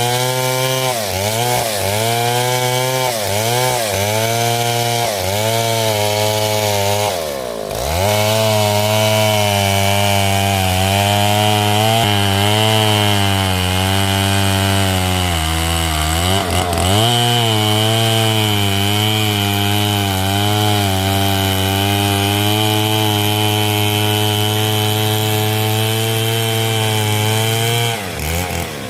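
Stihl MS 070, a big two-stroke chainsaw, cutting through hard coconut wood, its engine pitch sagging and recovering under the load. The pitch rises and falls in quick dips for the first several seconds, then holds steadier, dropping sharply three times: about a quarter of the way in, near the middle and near the end.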